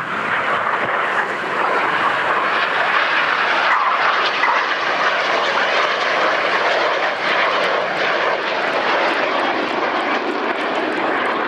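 BAE Hawk T1 jets passing in display flight: a steady rush of turbofan engine noise that swells over the first couple of seconds and then holds.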